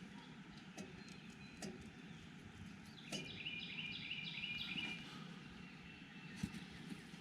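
Small wood fire catching in a Solo Stove, with a steady low rush and a few scattered crackles and pops. About three seconds in, a bird calls in a quick run of high repeated notes lasting about two seconds.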